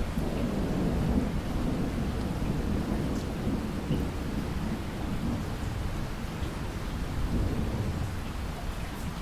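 Thunderstorm: steady rain under a low, rolling rumble of thunder that swells and eases.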